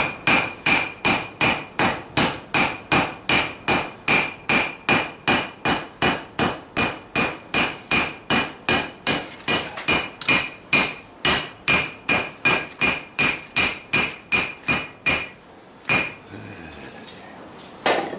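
Three-pound hand hammer forging steel on a restored Vulcan 90-pound anvil, striking in a steady rhythm of about three blows a second, each blow ringing on the same high note. The hammering stops about fifteen seconds in, and one last blow lands a second later.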